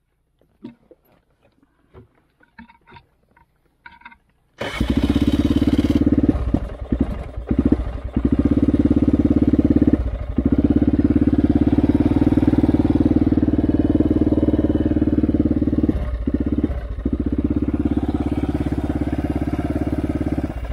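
A few faint clicks, then a four-wheeler's engine starts about four and a half seconds in and runs loudly but unevenly. It stumbles several times and dies away near the end, a sign that it is running out of gas.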